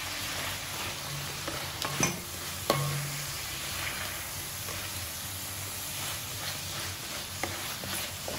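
Chicken, onion, garlic and hotdog slices sizzling in butter in an enamel pot while being stirred with a spatula. The spatula scrapes and knocks against the pot a few times, loudest about two and a half seconds in.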